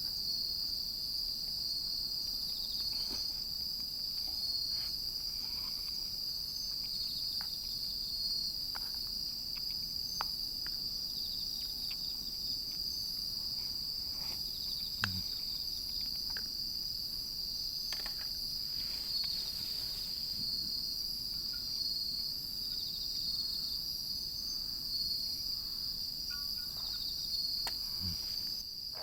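Steady chorus of singing insects, a high shrill band with a fast pulsing texture, with scattered faint clicks and a couple of soft knocks.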